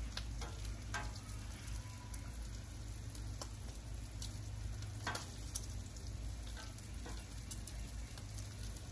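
Bacon and sausage sizzling steadily on a Blackstone propane flat-top griddle, with a few sharp clicks of metal tongs, about a second in and around five seconds in.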